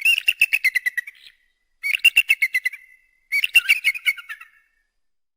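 Eagle calling: three bursts of rapid high-pitched chittering notes, each burst falling in pitch and lasting about a second.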